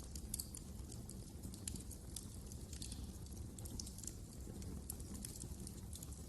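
Wood fire crackling in a fireplace: irregular small snaps and pops over a low steady rumble.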